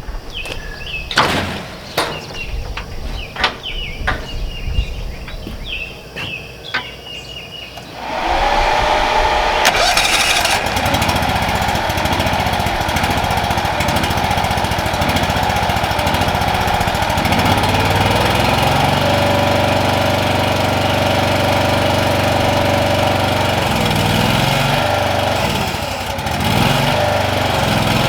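Scattered knocks and clanks of metal equipment being handled, then a rented Ditch Witch walk-behind trencher's small gas engine starts about eight seconds in and runs steadily, changing speed a couple of times.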